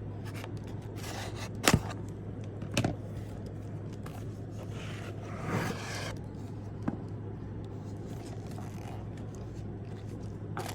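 A nail stamping plate and its packaging being handled: sharp clicks about two and three seconds in, and scraping and rustling in between. A steady low hum runs underneath.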